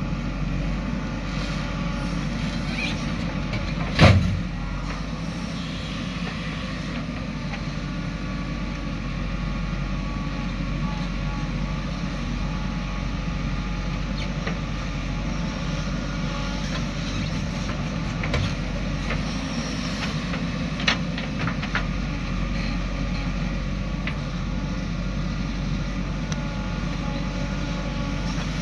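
Diesel engine of a JCB 3DX backhoe loader running steadily during soil loading, with one loud thump about four seconds in and a few lighter knocks later.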